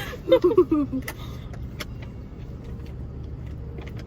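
Steady low rumble of a car heard from inside the cabin, with a few faint clicks. A short bit of speech comes in the first second.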